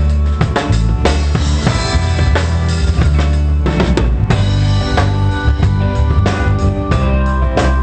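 Live pop band playing a song during a sound check: a drum kit with kick and snare hits out in front, over steady bass notes and held chords.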